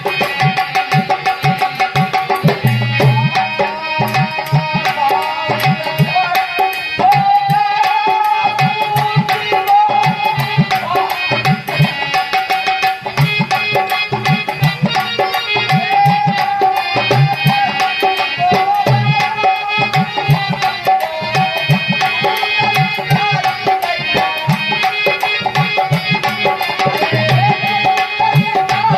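A dholak is played in a fast, busy rhythm of deep strokes. Over it a melodic instrument holds a long, wavering line, forming an instrumental interlude in a rural folk bhajan.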